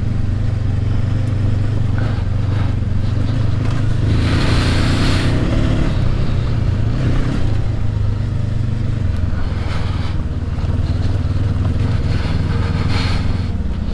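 Honda CB500X's parallel-twin engine running steadily in second gear over rough off-road ground, heard from the bike's own camera. A broad rush of noise about four seconds in, and the engine note drops slightly a few seconds later.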